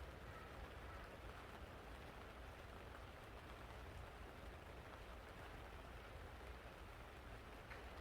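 Faint, steady background noise with a low rumble and no distinct event.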